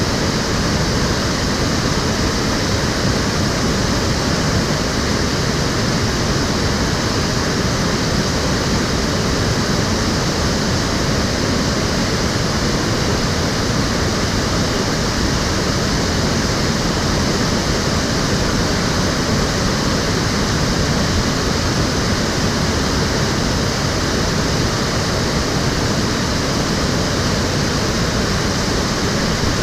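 Water in a shallow urban stream flowing and splashing over stones or a weir, a steady, even rushing.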